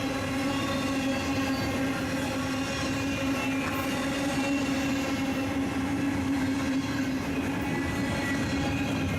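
Diesel freight train passing close by: a steady rumble with a constant droning tone and its overtones held over it.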